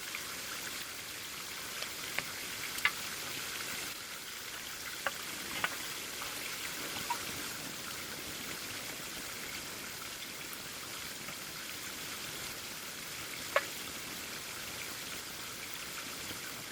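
Campfire burning with a steady hiss and a few sharp crackling pops scattered through it.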